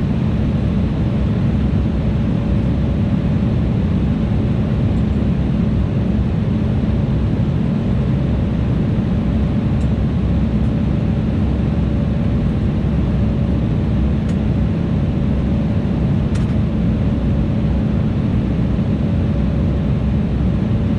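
Steady in-flight cabin noise of an Embraer E175: the rush of airflow and the running GE CF34 turbofans, with a constant low hum and a higher steady tone over it, and a few faint ticks.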